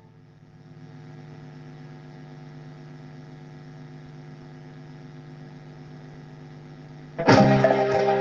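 Steady electrical hum with faint tape hiss from cassette playback in the blank gap between songs. About seven seconds in, the next cumbia track starts suddenly with percussion and guitar.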